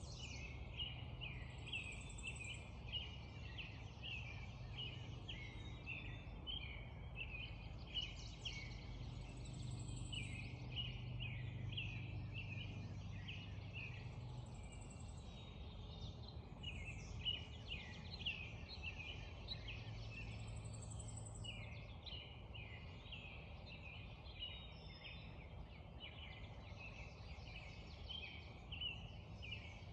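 Spring dawn chorus of many birds chirping in quick, overlapping short notes, with a thin high call repeating every few seconds. A low steady rumble runs underneath.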